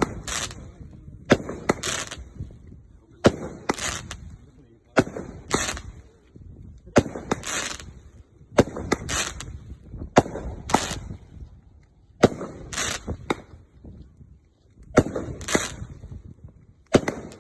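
Fireworks going off in a steady series: a sharp bang every one and a half to two seconds, each followed about half a second later by a crackling burst.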